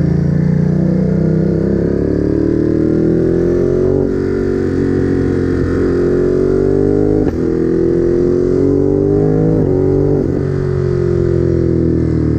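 Ducati Monster's L-twin engine under acceleration on the road, its pitch climbing through each gear with sudden drops at three upshifts, then falling gradually near the end as the throttle eases off.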